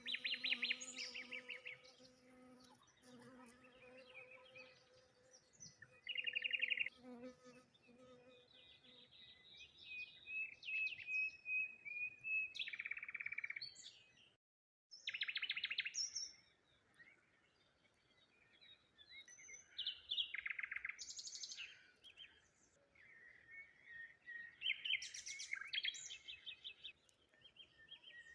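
Small songbirds singing and chirping in repeated bursts of rapid trills and calls. A faint steady low hum runs under them for the first third. The sound drops out completely for a moment about halfway through.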